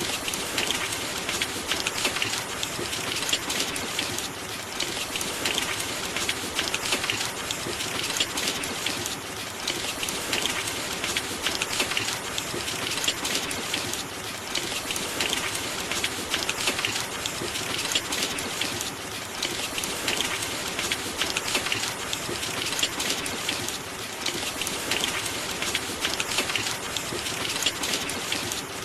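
Steady, dense rain pattering, swelling and easing slightly every few seconds.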